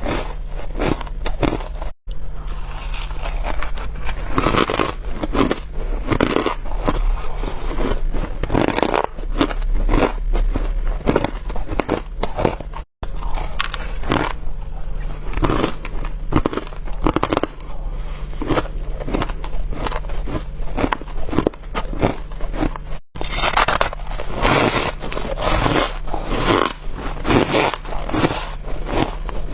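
Frost being bitten and chewed in quick, continuous crunches, squeaky and crispy. The crunching breaks off abruptly three times.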